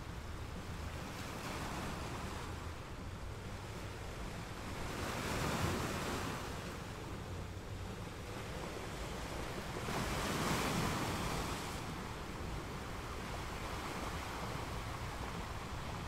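Ocean surf breaking on a sandy beach: a continuous wash of waves, with two louder breakers swelling and fading, one about five seconds in and another about ten seconds in.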